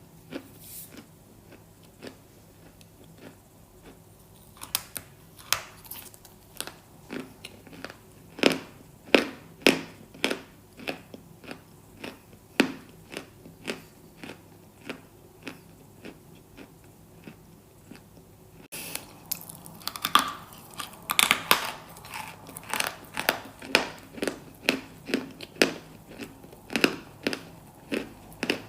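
Close-miked crunching: something brittle being bitten and chewed in a string of sharp, crisp cracks. The crunches are sparse at first and come thicker and faster in the last third.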